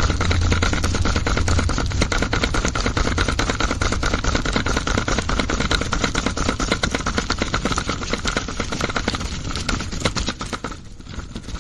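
Small electric motor and gears of a DIY toy tractor running with a rapid, steady clatter, fading out near the end.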